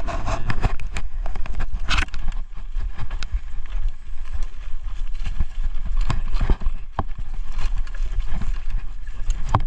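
Irregular knocks, clicks and rattles of a mountain bike moving over a rough dirt trail, over a steady low rumble.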